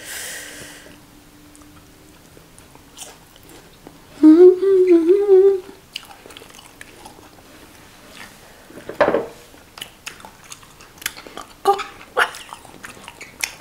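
People chewing and biting fried tilapia and banku with wet clicks and lip smacks. There is a hissing breath at the start and a loud, wavering closed-mouth hum about four seconds in, lasting a second and a half, a reaction to the burn of a very spicy pepper sauce.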